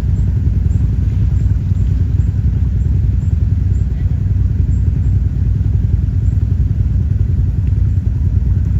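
Quad (ATV) engine running steadily, a loud low rumble with no change in revs.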